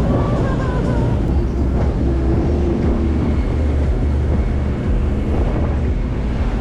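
Motorboat engine running underway with a steady low rumble, and wind buffeting the microphone.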